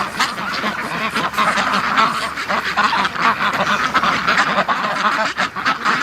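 A large flock of Pekin ducks quacking continuously, many loud calls overlapping into a steady clamour.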